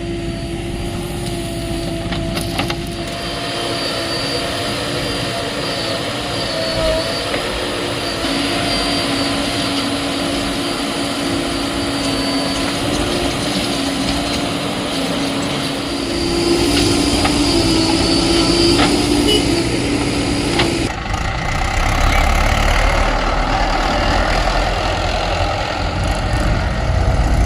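Diesel engine of a JCB 3DX backhoe loader working during loading, a steady drone with a whining tone on top. About 21 seconds in, the whine drops away and the sound becomes a deeper, louder rumble.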